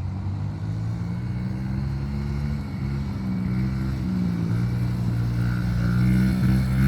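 Dirt bike engine running, its pitch wavering as the throttle changes, and growing louder toward the end.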